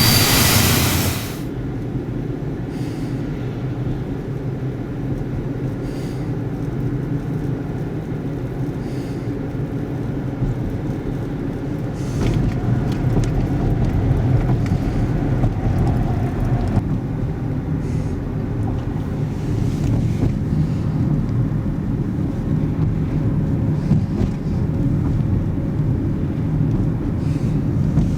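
Steady low rumble of vehicle traffic in motion, with faint light ticks about every three seconds.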